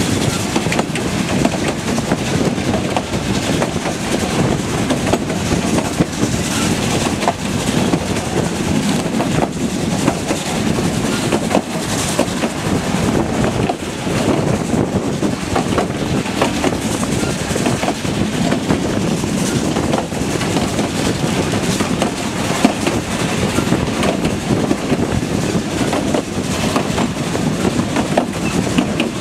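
Narrow-gauge railway carriage running along the line: a steady rumble of wheels on rails, with frequent short clicks and knocks from the track.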